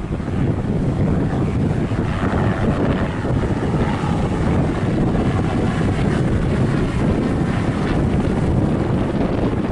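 Bell 206L-3 LongRanger III single-turbine helicopter flying past, its rotor and turbine noise steady and mixed with wind buffeting the microphone.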